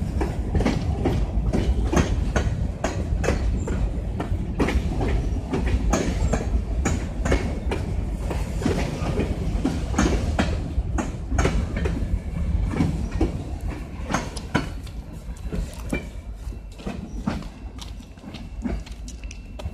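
Freight train of covered hopper cars rolling past close by: a steady heavy rumble of steel wheels with rapid, uneven clicks as the wheels cross rail joints. The sound fades over the last few seconds as the end of the train goes away down the track.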